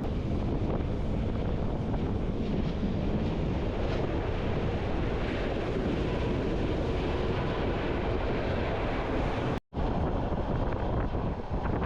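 Bernina line train running, heard from an open observation carriage: a steady rumble with wind buffeting the microphone. The sound cuts out for a split second about ten seconds in.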